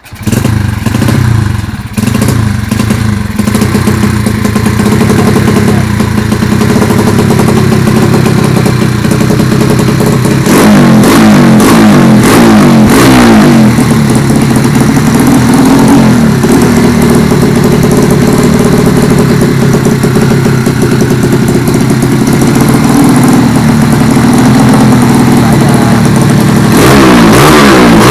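Modified 185 cc Yamaha Vega motorcycle engine with a loud open exhaust, cutting in suddenly and running unevenly for the first couple of seconds, then holding a steady loud idle. It is blipped up and down in revs several times, about ten seconds in and again near the end.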